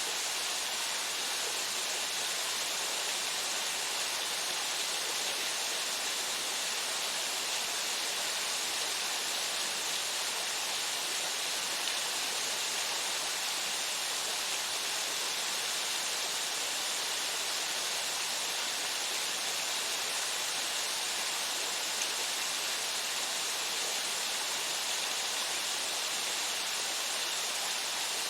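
Waterfall pouring steadily into its pool, a constant hiss strongest in the upper range, with no change over the whole stretch.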